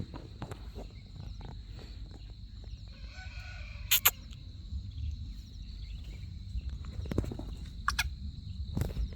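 Black francolin calling, a faint harsh patterned call about three seconds in. Sharp clicks come around the call and again near the end, over a steady high insect-like tone and low rumble.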